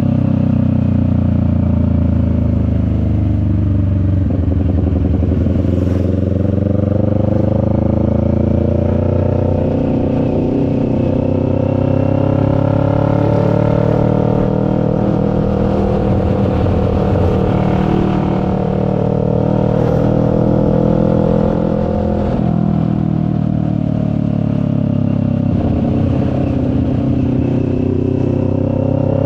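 CFMoto 400NK's parallel-twin engine running under way, its pitch rising and falling as the revs change, with clear dips about four seconds in and again about two-thirds of the way through.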